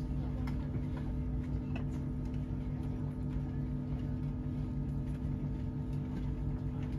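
Cabin noise of a Chinese high-speed train running at reduced speed just before its station stop: a steady hum carrying a few constant tones, with faint scattered clicks.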